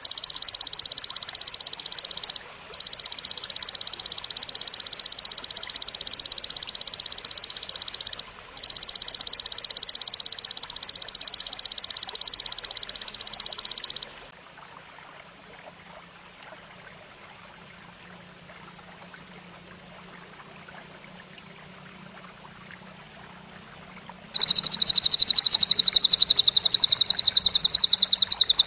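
Recorded grasshopper (belalang) song used as bird-training material: a loud, dense, very fast high trill, broken twice by short pauses, which stops about halfway through. Only faint hiss follows, until a second, higher and rapid pulsed trill starts near the end.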